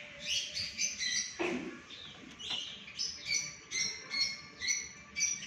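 Alexandrine parakeet chirping, a string of short, high calls that come quicker, about three a second, in the second half.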